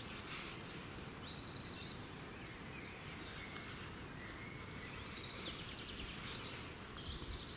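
Songbirds singing, with chirps and a rapid trill about two seconds in, over a faint steady hiss of outdoor background noise.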